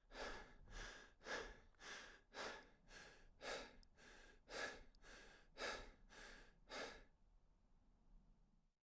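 Faint rhythmic breathing, breathy puffs about twice a second in a regular in-and-out pattern, stopping about seven seconds in.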